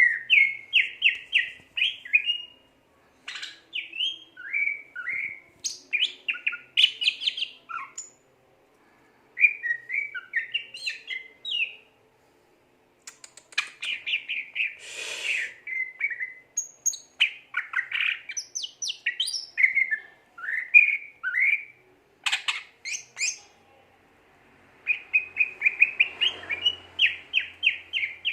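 Cucak ijo (green leafbird) singing vigorously: rapid phrases of quick repeated chips and slurred whistles, broken by several short pauses. About halfway through there is one brief rougher, noisier burst within the song.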